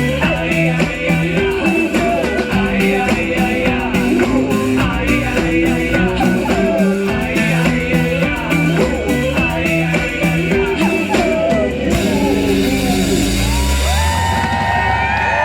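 Live rock band playing with drums and singing at full volume; about twelve seconds in the beat stops, leaving a held low note and sliding high tones as the song ends.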